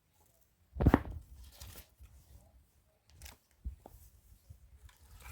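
Dry sticks and brushwood being handled and stacked for an unlit bonfire: a loud knock about a second in, then scattered rustling, crackling and a few sharp clicks.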